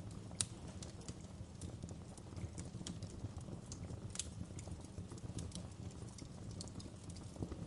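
Fireplace fire crackling: irregular sharp pops and snaps over a steady low rumble of the flames, with the loudest pops about half a second in and about four seconds in.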